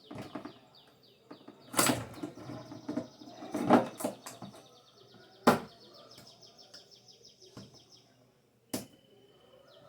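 Sharp knocks and clicks of electric fan motor parts being handled and fitted back together, a few seconds apart, the loudest about halfway through. A bird trills rapidly in the background for a few seconds and again near the end.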